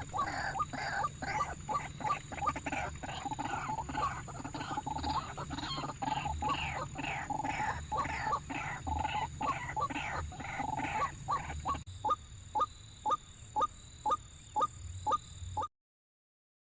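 White-breasted waterhen (ruak-ruak) calling: a long run of evenly repeated, falling notes at about two to three a second. The notes turn sharper and clearer about twelve seconds in, and the sound cuts out to nothing near the end.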